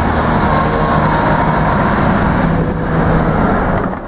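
A car engine running with a steady note over street traffic noise, the pitch settling slightly lower about a second in. The sound drops away suddenly near the end.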